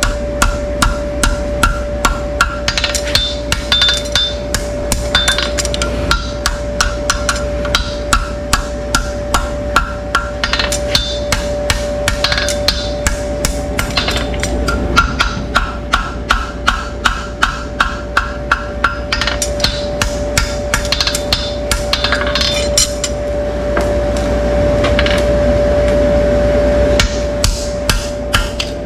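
Hammer tapping in quick, even runs of about three strikes a second, with short pauses, over a steady hum.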